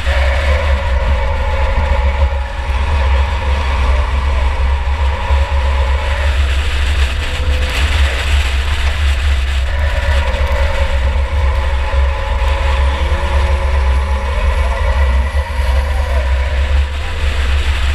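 2004 Chevrolet Impala enduro race car under way, heard from on board. A heavy, steady low rumble runs under the engine note, which eases off about six seconds in and picks up again around ten seconds.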